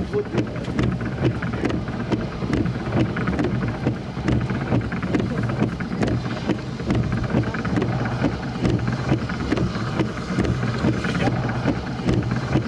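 Wind buffeting the microphone: a dense low rumble that flutters and gusts unevenly throughout.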